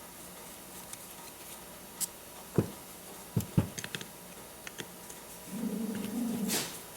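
A metal carburetor being knocked against a table several times, with a few lighter clicks. Near the end a pug dog starts a low, drawn-out vocal noise.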